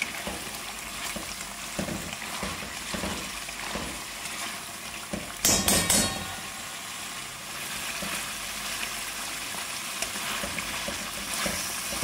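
Chicken pieces in a thick tomato masala sizzling in a karahi while being stirred with a spatula: the curry being fried down to finish. A brief louder noise about halfway through.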